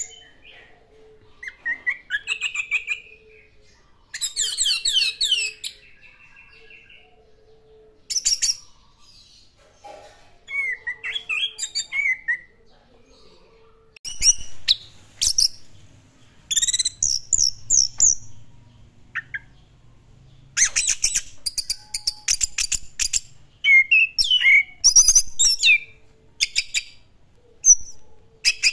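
Orange-headed thrush (anis merah) singing in bursts of quick, varied whistled phrases with short pauses between them.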